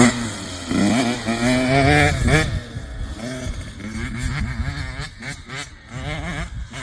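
Kids' dirt bike engines revving up and down, loudest for the first two and a half seconds, then quieter and further off.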